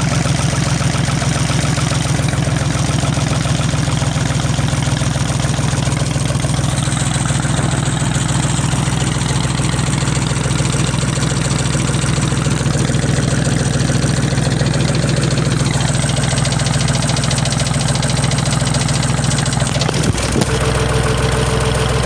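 Long 2460 tractor engine running steadily at idle after an ether-assisted start, with a higher steady tone joining near the end.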